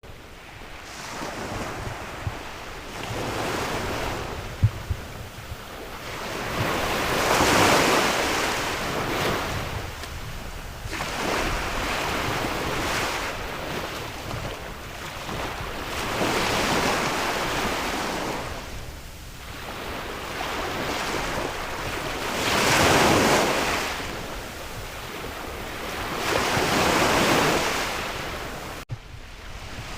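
Sea waves washing ashore, the surf rising and falling about every four to five seconds, with sea wind and a few gusts buffeting the microphone.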